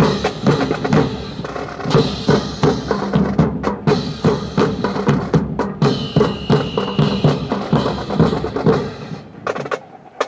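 Marching drum corps of snare and bass drums playing a steady, fast cadence that stops about nine seconds in. A brief high steady tone sounds over the drums a little past the middle.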